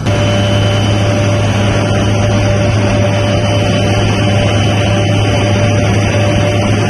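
Helicopter engine running steadily: a loud constant low drone with a thin steady whine above it.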